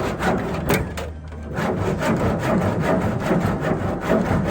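Handsaw cutting through timber with quick back-and-forth strokes, pausing briefly about a second in: finishing a cut that the circular saw could not take fully through.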